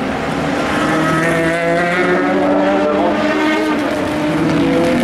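Several endurance race car engines running together, each at its own pitch, the pitches gliding up and down as the cars pass.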